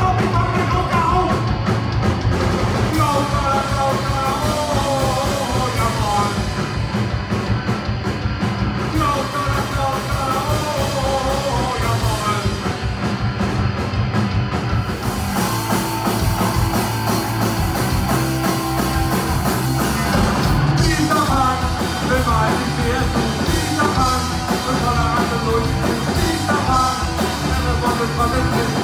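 Punk rock band playing live, loud and without a break, with a singer's voice over the band.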